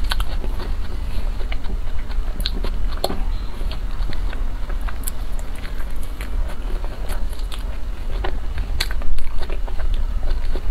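Close-miked mouth sounds of someone biting and chewing a soft cream-filled purple cake: a run of wet clicks and smacks at an uneven pace, loudest about nine seconds in, over a steady low hum.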